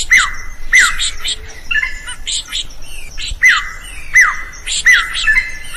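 Drongo singing: loud, sharp whistled notes that each swoop quickly downward, in two runs of two or three, mixed with rapid high chips and squeaks.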